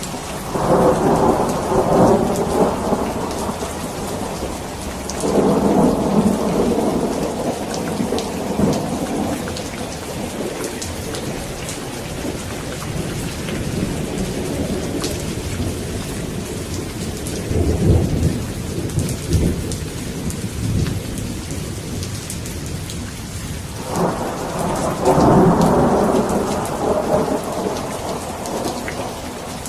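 Steady rain with thunder rolling and rumbling several times: four long swells of a few seconds each over the rain.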